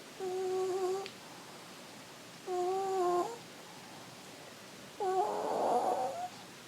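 Sleeping dog snoring: three pitched, whistle-like snores about two and a half seconds apart, the last one longer and rougher.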